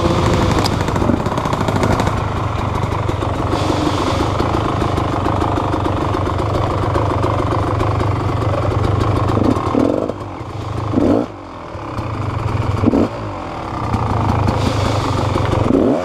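Motorcycle engine on a trail ride, running steadily under throttle, then backed off and blipped open several times in the last few seconds, its pitch briefly rising with each blip.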